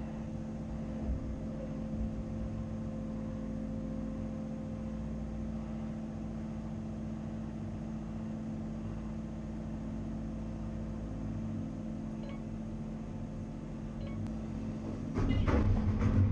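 Cat 330 Next Generation excavator's C7.1 diesel engine running steadily, with a steady tonal hum over it. Near the end it turns louder, with a deep rumble and a few sharp knocks as the machine takes load.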